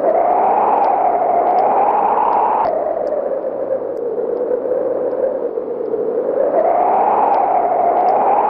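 Common potoo (urutau) song: a long, hazy, mournful tone that slowly rises in pitch and then drops suddenly. This happens twice.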